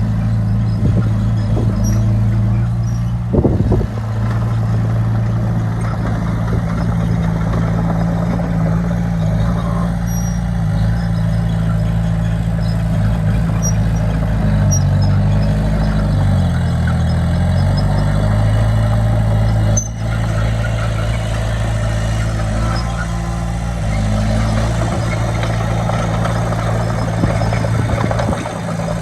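Heavy diesel engine of earthmoving machinery running steadily. About halfway through its pitch sags and then climbs back. There is a short knock a few seconds in.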